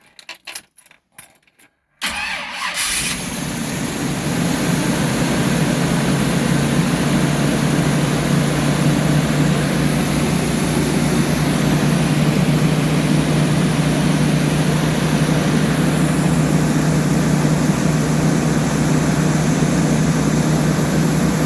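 Chevrolet 454 big-block V8 with a Holley carburetor starting: a few faint clicks, then about two seconds in it catches suddenly and runs steadily with a strong low hum. It runs smoothly after sitting, which the owner takes to mean the carburetor is not gummed up.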